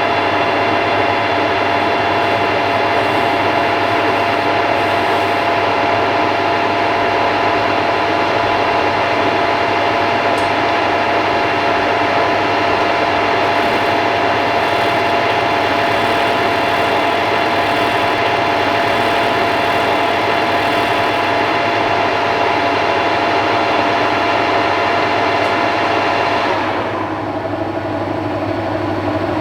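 Soviet-made metal lathe running with a steady gear whine over a low motor hum. The higher part of the whine fades away near the end.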